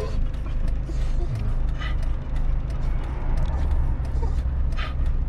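Motorhome on the move, heard from inside the cab: a steady low engine and road rumble with frequent creaks and rattles from the fittings.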